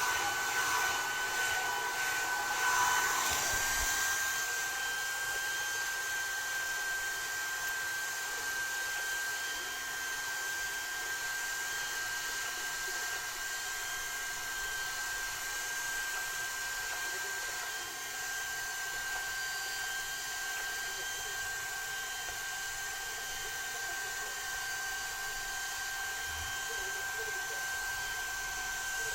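Hair dryer blowing steadily, a rushing airflow with a high motor whine. It is louder and busier for the first few seconds, then settles to an even tone.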